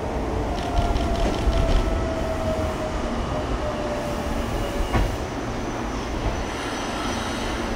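Meitetsu electric train pulling slowly into the platform, its running gear rumbling with a thin whine that falls in pitch as it slows, light squeal early on, and a single sharp knock about five seconds in.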